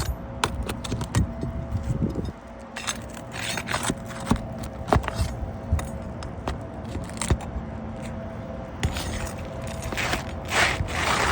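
Scraping and clattering of parts being handled, with many sharp clicks and knocks and a louder burst of scraping near the end, over a faint steady hum.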